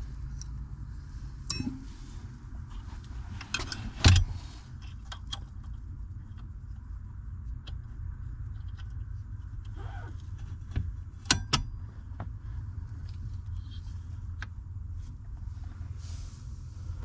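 Scattered metallic clicks and clinks of tools and parts being handled during steering column reassembly, one sharper knock about four seconds in and a couple more near the middle, over a steady low hum.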